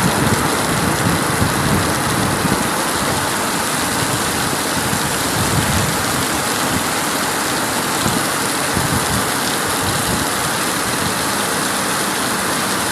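Steady rain falling, a loud even hiss with a dense patter of drops.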